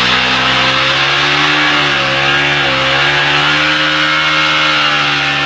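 Motorcycle engine held at high revs, a steady buzzing note that wavers slightly up and down in pitch.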